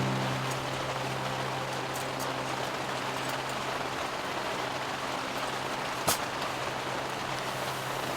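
Steady rain falling, with a low steady hum of tones underneath and one sharp click about six seconds in.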